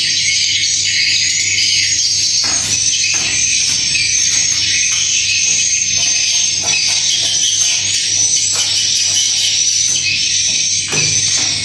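Dense, steady high-pitched twittering of many swiftlet calls, with a few faint knocks.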